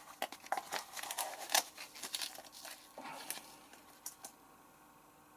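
Scoops of Vanish stain-remover powder being measured out and tipped in: crinkly rustling and small scraping clicks of the plastic scoop and tub. The sound stops about four seconds in.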